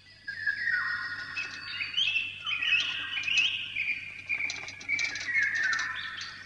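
Songbirds singing: several high whistled calls overlapping, their notes stepping down in pitch.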